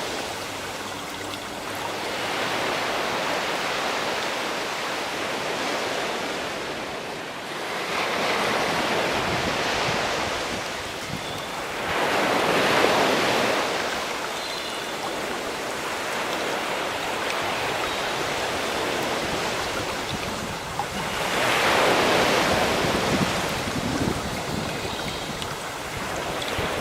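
Sea waves washing in and out in slow, repeated swells, with louder surges about a third of the way in, about halfway and again near the end.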